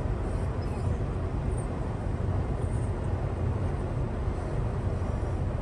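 Steady low rumble of a semi truck running, engine drone and road noise without change.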